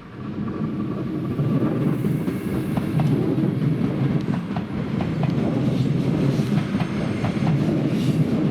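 Passenger train rolling along the station tracks: a steady, loud rumble of wheels on rail that starts abruptly, with repeated clicks as the wheels cross rail joints, about one or two a second.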